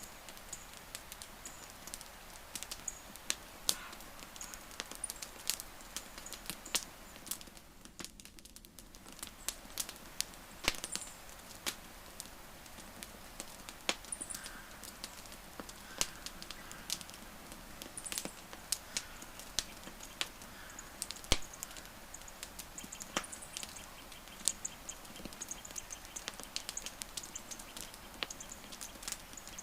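Wood fire crackling: frequent irregular sharp pops and snaps, a few much louder than the rest, over a steady soft hiss.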